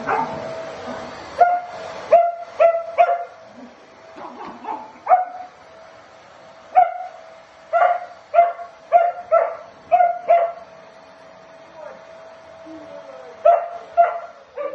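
Corgi barking in short, sharp runs of yips, about a dozen barks, at a running vacuum cleaner whose steady whine underlies them and stops near the end.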